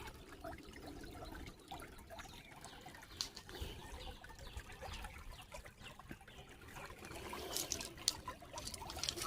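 Shallow creek water trickling steadily, with scattered light clicks and splashes, a few sharper ones near the middle and toward the end.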